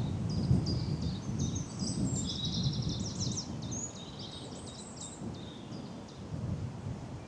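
Woodland birds singing, a run of quick high chirps and trills, over a steady low rumble.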